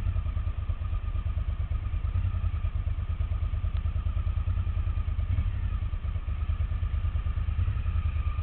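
Off-road motorcycle engine running steadily at low revs, with no revving.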